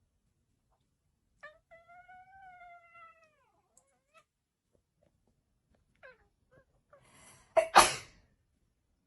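A domestic cat gives one long meow that rises slightly, then falls, and a faint short call a few seconds later. Near the end there is a loud, short noisy burst.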